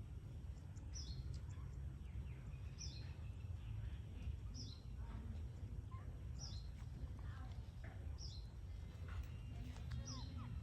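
A small bird's high, falling chirp, repeated about every two seconds, over a steady low rumble.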